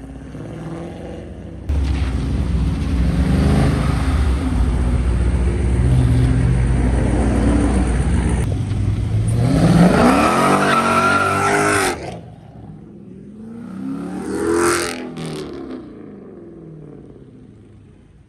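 A muscle car launching hard, its engine revving with tyres squealing; the engine pitch climbs steeply as it accelerates away, then drops off about twelve seconds in. A second car passes by about fourteen seconds in.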